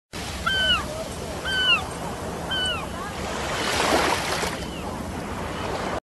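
Three short, falling bird calls about a second apart over a steady wash of ocean surf, which swells about four seconds in.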